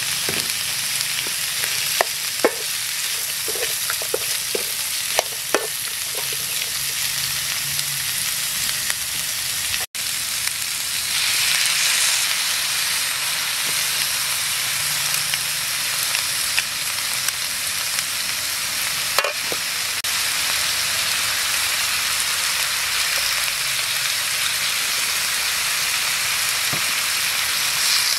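Pork, onion, bell peppers and pineapple sizzling steadily in a hot wok, with a few sharp metal clinks of the ladle against the wok in the first several seconds. About ten seconds in the sound drops out for an instant, then the sizzle comes back louder and brighter.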